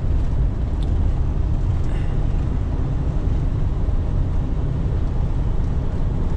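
Steady low rumble of a semi-truck on the move, heard from inside the cab: engine and road noise while driving on the highway.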